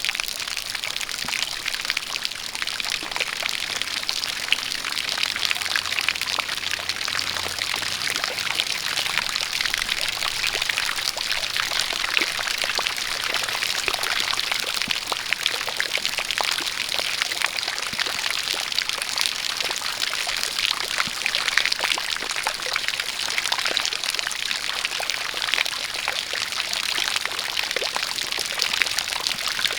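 A jet of water pouring and splashing steadily, with rain falling, a continuous hiss full of fine drop patter.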